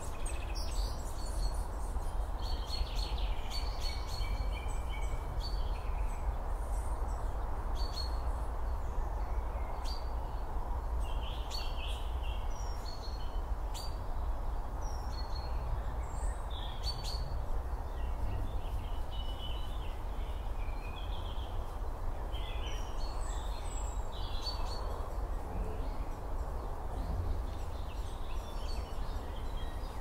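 Small birds chirping and calling on and off over a steady rushing background noise.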